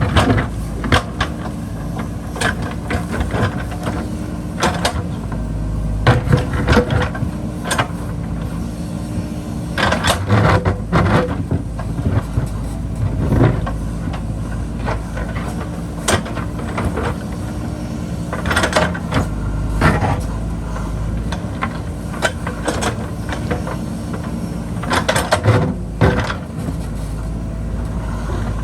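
JCB backhoe loader's diesel engine running steadily under load, with repeated sharp clanks and scrapes as the bucket digs into rocky hillside ground.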